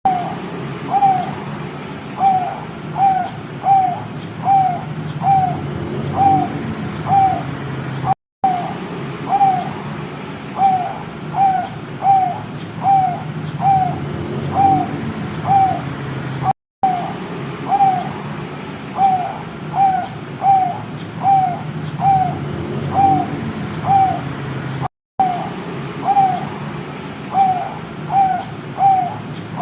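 Young zebra dove (perkutut) giving short, identical coo notes in an even series, about three every two seconds: an immature bird whose full song has not yet come in. The series is broken by a brief silent gap about every eight seconds.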